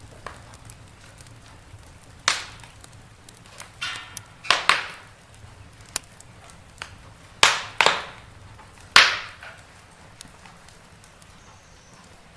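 Wood fire in a fireplace crackling, with half a dozen loud, irregular pops and snaps over a low steady background.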